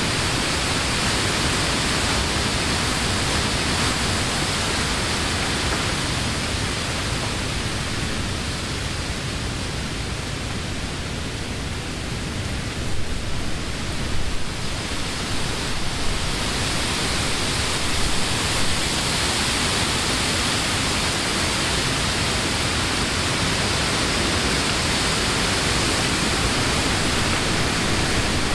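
Summer wind rushing through the leaves of woodland trees as a steady hiss. It eases a little about a third of the way through, then builds again.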